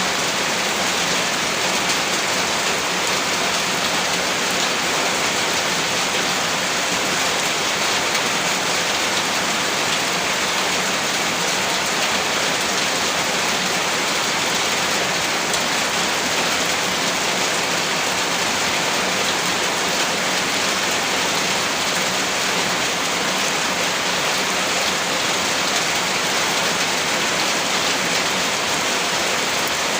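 Heavy rain falling steadily, a dense unbroken hiss of drops with no gaps or rumbles.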